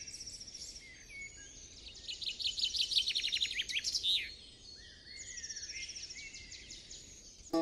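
Songbirds singing in the trees: several overlapping high, rapid trills and chirps, busiest and loudest in the middle, over a faint steady outdoor hiss.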